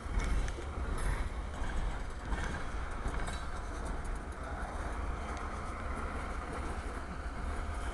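Freight cars rolling past close by: a steady rumble and clatter of steel wheels on the rails, with a few sharp clicks.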